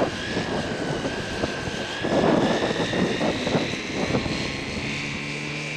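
Electric radio-control scale model airplane taking off: a steady motor-and-propeller whine that climbs slowly in pitch as it speeds up. A burst of rushing noise comes about two seconds in.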